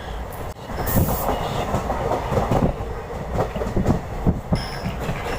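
Passenger train running along the track, heard on board: a steady low rumble with the irregular clatter of wheels over rail joints. A thin high wheel squeal comes in near the end.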